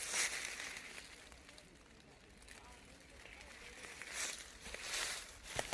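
Rustling of leaves and brush in a few separate swells, with a sharp click near the end.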